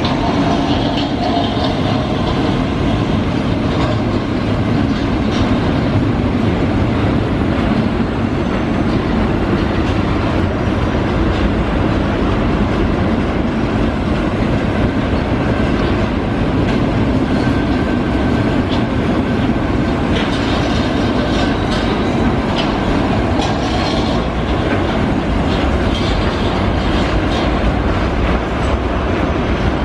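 Freight train of double-deck car-carrier wagons rolling past at steady speed: a continuous rumble of steel wheels on rail, with the clickety-clack of wheels over rail joints.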